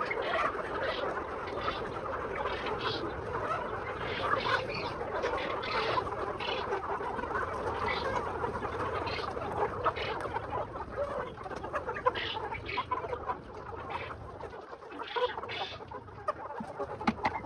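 A large flock of farmed poultry calling together: a dense, continuous chatter with many short, sharp calls standing out over it.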